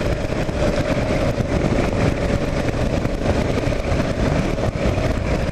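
2009 Kawasaki KLR 650's single-cylinder engine running steadily under way, mixed with a steady rush of wind noise on the microphone.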